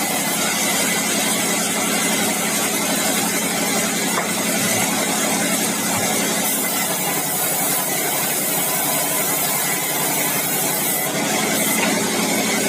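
Sawmill bandsaw mill running steadily, a continuous machine drone with a hiss over it.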